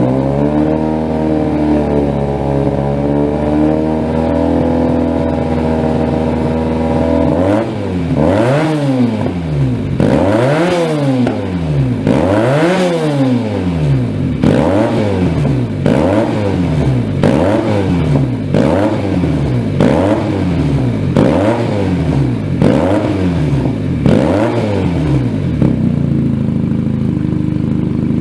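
Benelli TNT300 parallel-twin engine, fitted with a loud aftermarket exhaust, revved up and held at high revs for several seconds. It then gets a long series of quick throttle blips, about one a second, before dropping back to idle near the end.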